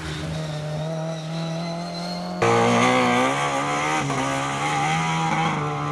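Rally car engine running hard with its pitch holding and wavering. About two and a half seconds in, an abrupt cut brings a louder rally car engine, revving up and down.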